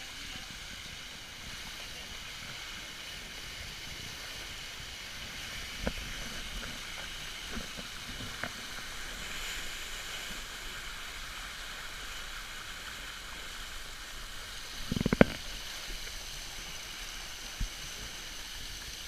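Water rushing steadily along the hull of a Thompson T750 sailing boat under way, with a few scattered knocks and a sharp cluster of loud thumps about three-quarters of the way through.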